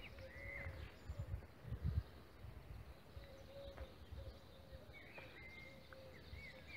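Faint outdoor ambience of birds calling: short arched chirps and a low, evenly repeated call. A few low bumps come in the first two seconds.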